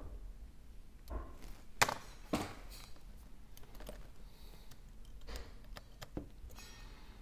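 A few small, sharp clicks and taps of hand tools working on an iPhone 12's internals, the sharpest pair about two seconds in.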